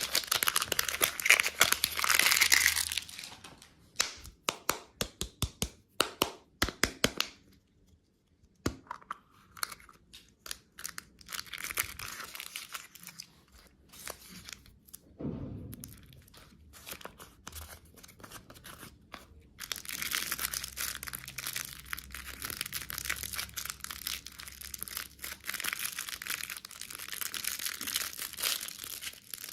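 A crinkly wrapper being torn and crumpled by hand. Dense rustling at the start gives way to a run of sharp crackles, then quieter, scattered handling, and dense crinkling comes back for the last third.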